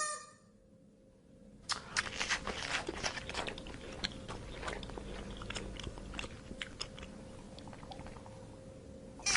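An animal chewing and crunching food: irregular crisp crunches start about two seconds in and go on steadily, with a faint steady hum underneath.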